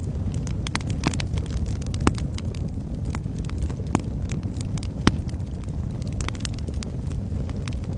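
Wood fire crackling in a fireplace: a steady low roar of flames with frequent irregular sharp pops and snaps, the loudest about two, four and five seconds in.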